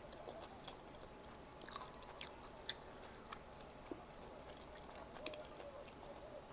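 A person chewing food close to the microphone, with scattered sharp crunchy clicks; the loudest crunch comes a little before halfway through.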